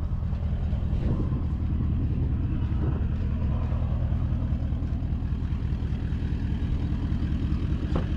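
Car engine running with a steady low rumble, and a brief click near the end.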